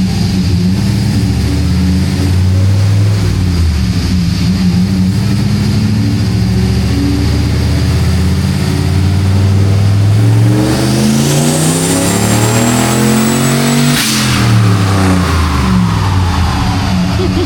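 1976 Ford F-250 truck engine running steadily under load on a chassis dyno, then revving up hard for about three seconds near the end, with a short sharp sound at the top before the revs fall away.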